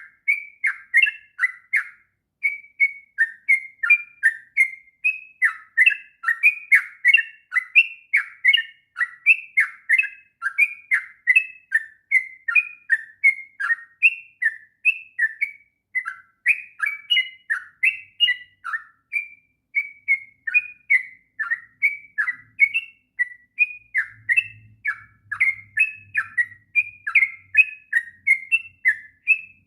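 Yellow-vented bulbul (trucuk) singing a long, unbroken run of quick slurred whistled notes, about three to four a second, with no pauses.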